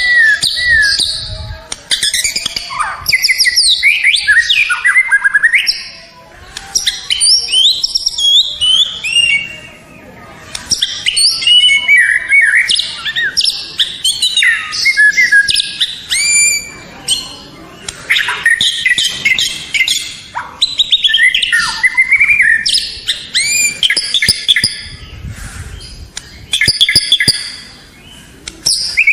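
White-rumped shama (murai batu) singing a long, varied song of rapid whistled phrases that rise and fall, in bursts separated by brief pauses.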